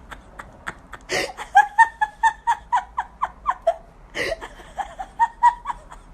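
A person laughing in quick, high-pitched rhythmic bursts, broken by two sharp gasping breaths, about a second in and about four seconds in.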